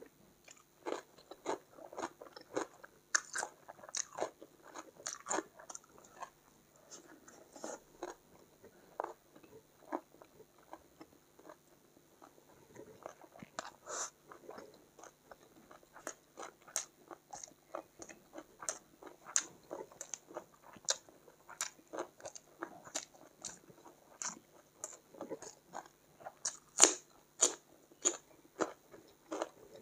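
A person chewing and crunching a mouthful of chicken curry, rice and crisp raw cucumber, with many short, sharp, wet mouth clicks a few times a second.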